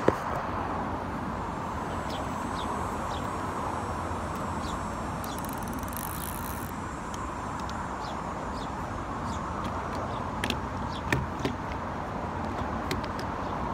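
Steady hum of road traffic from a nearby highway, with a few light clicks and taps of handling fishing gear near the end.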